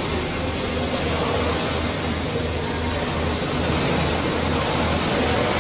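Steady machine noise with a low throb that pulses about three times a second.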